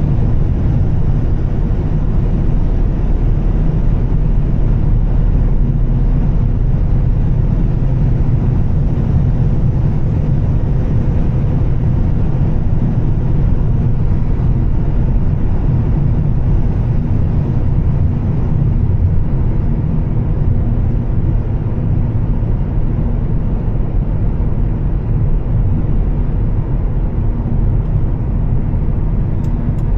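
Volvo S60 T6 with a Heico exhaust cruising steadily: a constant low engine and exhaust drone mixed with road and tyre noise. A few faint, quick high ticks come near the end.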